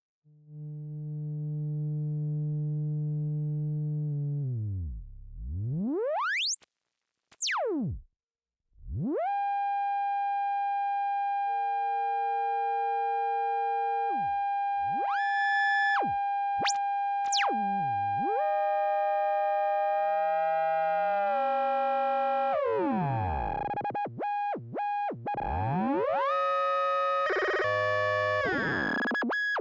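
Lorre-Mill Double Knot synthesizer playing. First a low held tone with overtones slides down, then swoops high and back down with short gaps. A steady mid-pitched tone is then held while other notes and sweeps come and go. Near the end it breaks into fast warbling sweeps that cut in and out.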